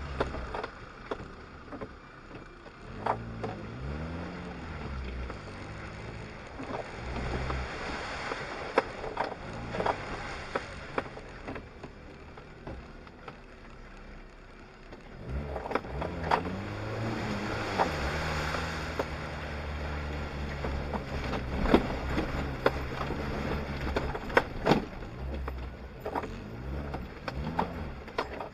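Suzuki Jimny's engine heard from inside the cabin, revving up and falling back again and again as it drives off-road over rough ground. Frequent sharp knocks and rattles break in over the engine, loudest in the second half.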